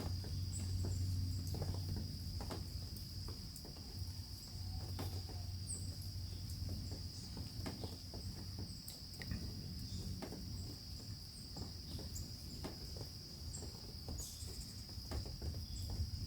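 Insect chorus, typical of crickets: one steady high trill without a break, with scattered faint clicks and a few short high chirps over it.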